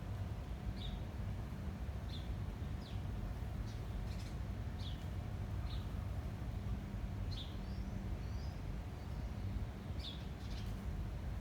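Garden birds chirping: short, high, falling chirps about once a second, with a brief warbled phrase a little past the middle. Under them runs a steady low rumble of wind.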